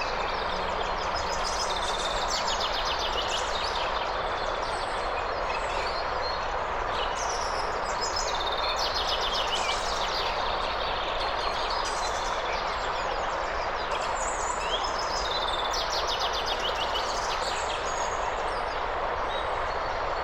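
Steady rushing of flowing water, with birds chirping and singing rapid trills over it, phrase after phrase throughout.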